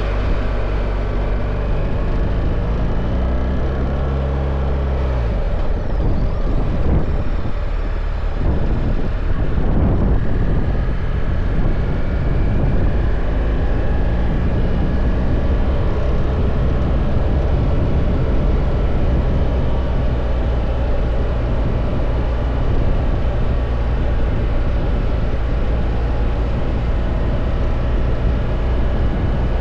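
BMW R1300 GS's boxer-twin engine running under way. The engine note rises over the first few seconds and shifts about five seconds in. There is a rougher noisy stretch around ten seconds in, then the note holds steady.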